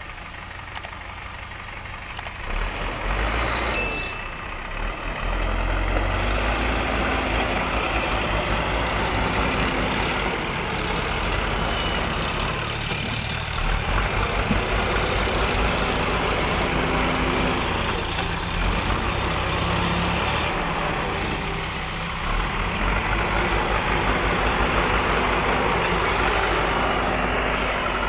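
Diesel engine of heavy machinery running steadily, its low note shifting slightly in pitch now and then.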